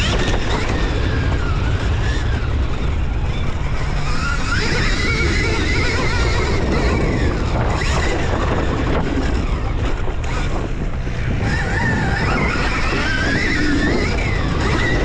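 Dirt bike ridden around a motocross track, its motor pitch rising and falling with the throttle, under heavy wind noise on the microphone.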